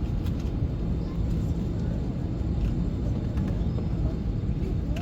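Steady low rumble of a jet airliner's engines and cabin noise heard from inside the cabin as the plane taxis before take-off.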